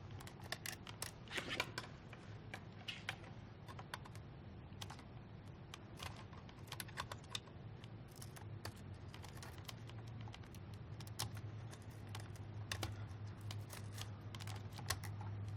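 Light, irregular clicks and taps of small plastic and metal ventilator parts being handled during disassembly, over a low hum that grows stronger in the second half.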